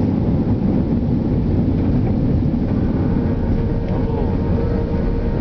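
Airliner cabin noise on the ground just after landing: a steady low rumble, joined about three seconds in by a faint steady hum.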